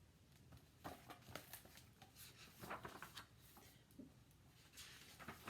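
Faint rustling and soft clicks of paper: a hardback picture book's pages being handled and turned, in two short clusters.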